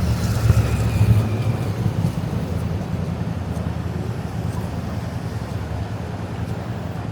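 City road traffic with a steady low rumble. One vehicle passes close in the first two seconds, louder and with a faint engine whine, then the sound settles to a steady background traffic hum.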